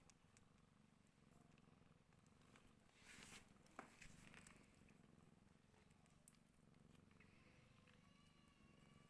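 Domestic cat purring faintly, a steady low rumble, with a short rustle about three seconds in.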